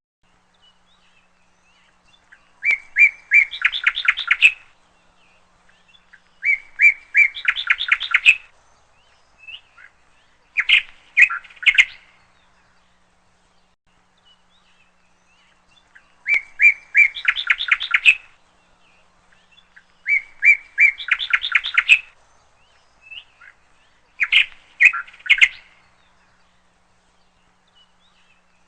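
A bird calling in the same phrase six times, about every four seconds: a few quick, even chirps running into a longer, higher trill.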